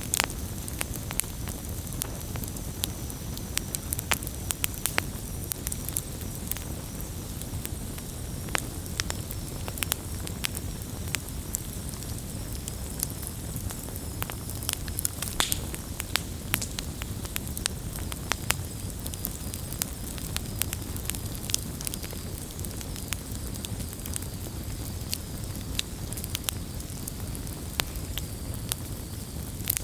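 Campfire burning: a steady low rumble of flames with frequent irregular sharp crackles and pops, and a faint high whistle that slowly drops in pitch.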